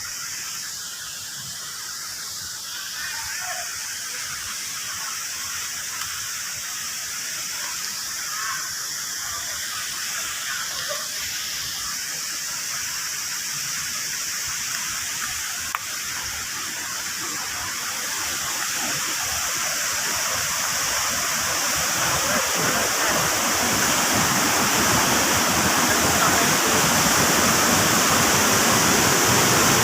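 Waterfall rushing in heavy flow, growing steadily louder and fuller through the second half.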